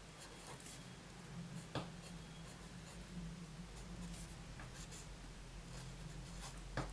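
Felt-tip permanent marker writing numbers on a sheet of paper: faint scratching strokes, with a couple of small clicks.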